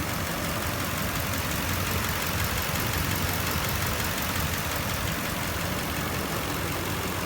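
2005 Nissan Armada's 5.6-litre V8 idling steadily, warmed up to operating temperature.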